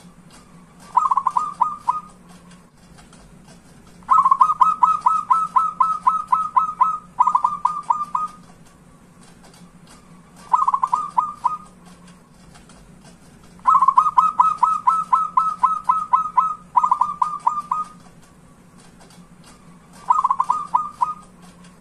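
Zebra doves (perkutut) cooing in bouts of quick staccato notes: short runs about a second long alternate with long runs of three to four seconds. A faint steady low hum runs underneath.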